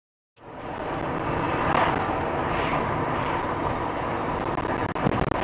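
Steady road and engine noise of a moving car, as recorded by a dashcam, cutting in suddenly about half a second in after silence.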